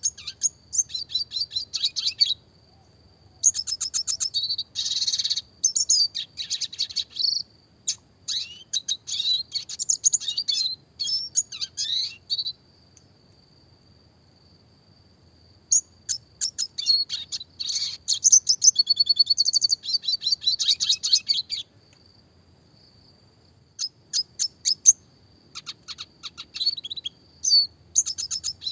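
Red siskin singing: fast twittering phrases of rapid, high chirps and trills, broken by two pauses of a few seconds.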